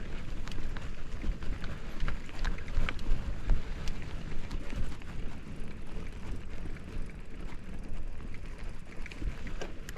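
Mountain bike riding over a dirt trail: a rumbling wind buffet on the microphone and tyre noise, with scattered clicks and rattles from the bike.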